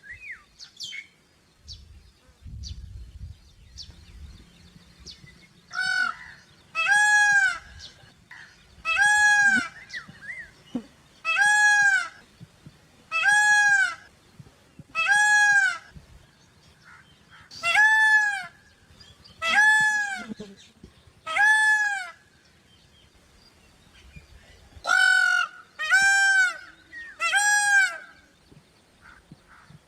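Indian peafowl giving its loud, honking call over and over, about a dozen times in two series with a short pause between, each call brief and arching in pitch. Faint small-bird chirps come before the first call.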